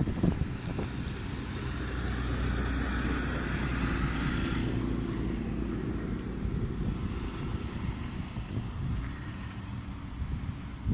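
Rolling thunder: a low rumble that swells about two seconds in, with a hiss over it, and eases off after about five seconds. Wind buffets the microphone at the start.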